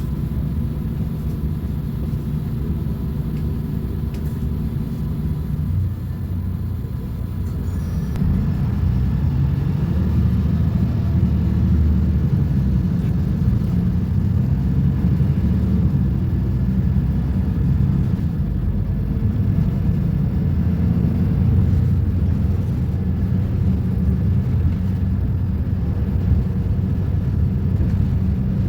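Diesel engine of a Volvo B250RLE city bus running. It turns from a steady rumble to a louder, busier note about eight seconds in, as when the bus pulls away under load.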